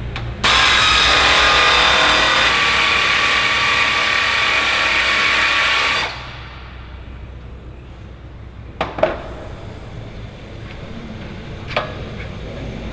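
Power drill running steadily with a whining motor for about five and a half seconds, then stopping abruptly. A few sharp clicks or knocks follow.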